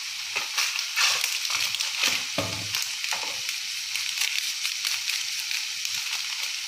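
Spiced onion-tomato masala paste sizzling and crackling as it fries in mustard oil in a kadai, with scattered louder pops over a steady hiss.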